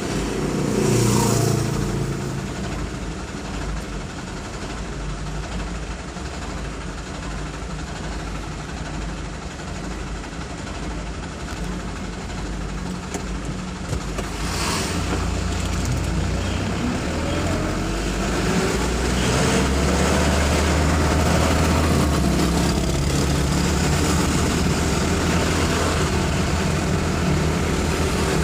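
Road traffic in a jam: vehicle engines running steadily, with vehicles passing close by now and then. Engine sound grows louder about halfway through and stays up.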